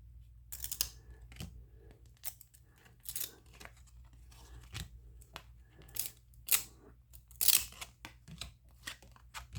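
A baseball-card pack wrapper being torn open and its cards handled, making a string of short, irregular tearing and crinkling sounds with sharp snaps of card against card.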